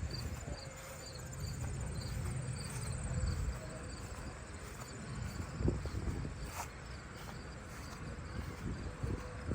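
Crickets chirping: a regular chirp about two or three times a second and a fainter high trill, over a steady low rumble, with one sharp click about two-thirds of the way through.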